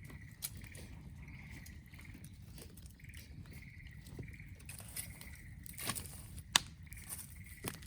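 Wood campfire crackling with scattered pops, one sharp pop about six and a half seconds in, over a low steady rumble. A faint high chirping repeats about twice a second throughout.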